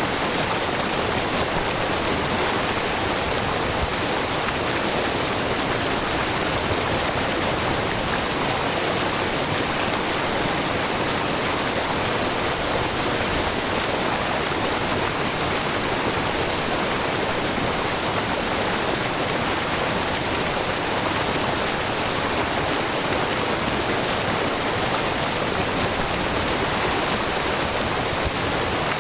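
A wide, low waterfall of spring water spilling over a rock face: a steady, even rush of falling and splashing water.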